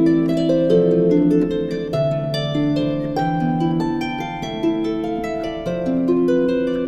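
Background music of plucked harp-like notes in a gentle melody, a new note every fraction of a second.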